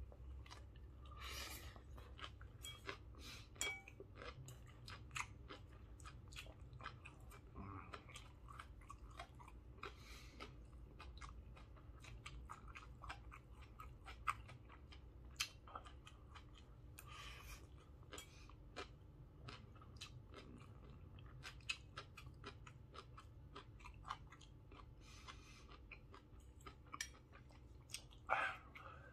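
A person chewing a mouthful of grilled chicken and som tam (green papaya salad): many small, quiet mouth clicks and crunches all through, over a steady low hum.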